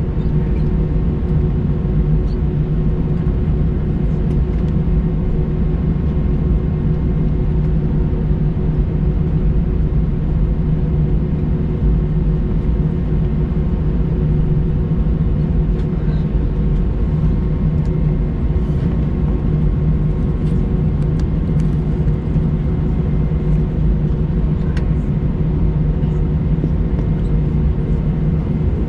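Steady rumble and hum inside the cabin of an Airbus A321-200 as the jet taxis after landing on its idling engines, with a few faint clicks.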